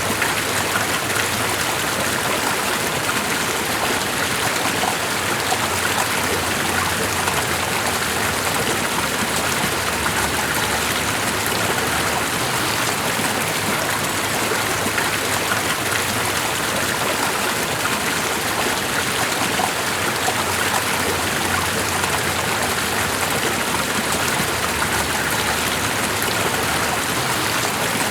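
Running water making a steady, even rush with no breaks or changes.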